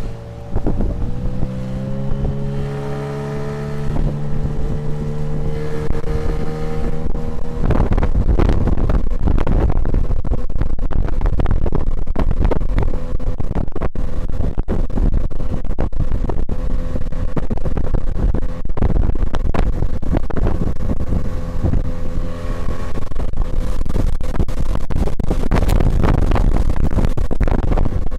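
Tohatsu 9.8 outboard motor on an inflatable boat opening up, its engine note climbing steadily over the first several seconds. About eight seconds in, loud rapid buffeting of wind on the microphone at speed drowns it out for the rest.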